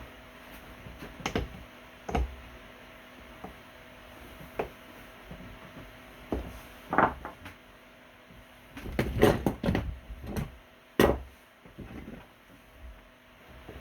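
Scattered knocks, taps and clicks, a dense run of them about nine to ten seconds in, over a faint steady hum.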